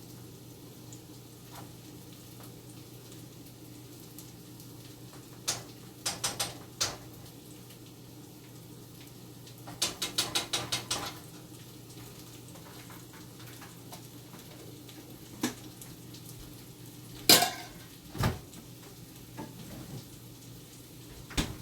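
Metal utensil clinking and scraping against a pan on the stove, with two quick runs of rapid taps and a single loudest clatter near the end, over a steady low hum.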